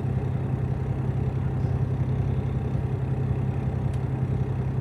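Semi truck's diesel engine idling steadily, an even low hum.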